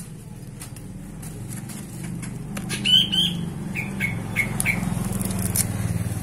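A bird squawks twice about three seconds in, followed by four shorter calls dropping in pitch. Under it runs a low engine hum that grows louder as a vehicle approaches, with a few light clicks of scissors snipping grasshoppers.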